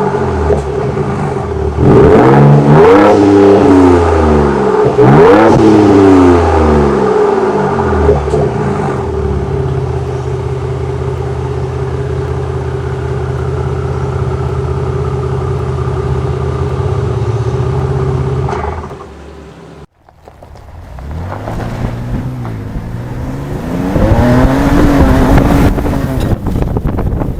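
Ford Ranger Raptor's 3.0-litre twin-turbo V6 engine and exhaust, revved up and down several times, then held at a steady speed for about ten seconds. The sound drops away sharply about twenty seconds in, then the engine rises and falls in revs again near the end.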